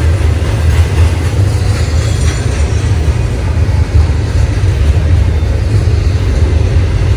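Train cars rolling past, a steady, heavy low rumble with no distinct knocks or breaks.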